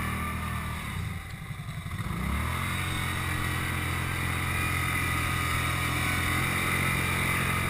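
ATV engine under throttle: the revs drop about a second in, then climb again and are held steady at higher revs through the rest.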